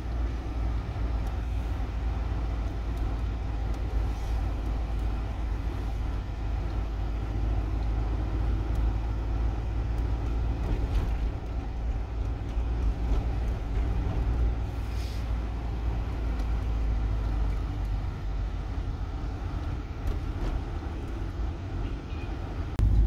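Steady low rumble of a moving vehicle and road noise, even throughout, with a few faint clicks.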